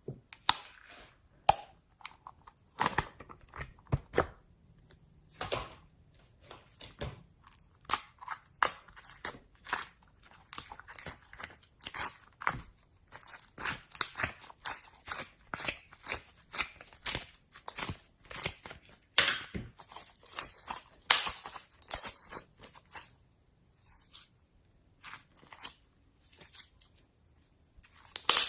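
Slime being squeezed and poked by hand, giving an irregular run of sharp crackling, popping clicks and squelches, thinning out for a moment near the end.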